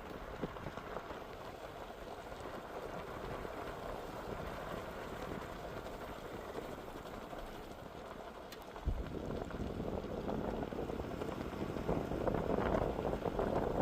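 Ford Super Duty pickup driving over washboard gravel: a steady hiss of tyre and road noise. About nine seconds in a low thump sets off a heavier rumble that grows louder and busier toward the end, as the truck hits rougher washboard.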